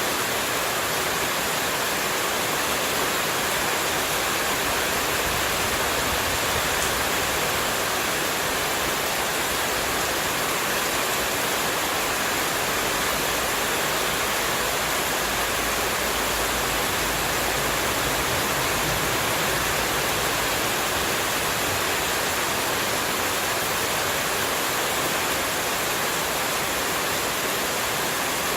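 Running water, a steady, unbroken rush without any change.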